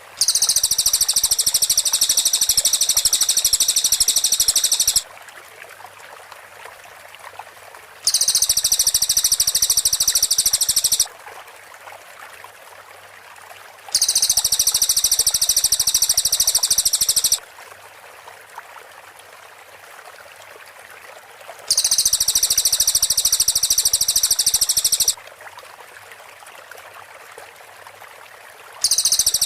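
Cililin bird singing its rapid-fire 'tembakan' trill: a very high-pitched, fast-pulsing run held for about three to five seconds, repeated five times with pauses of about three seconds between. A faint steady hiss lies under the pauses.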